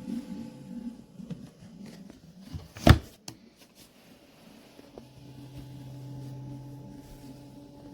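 A sharp knock about three seconds in, then from about five seconds a steady low hum sets in: a 12-volt compressor car fridge running.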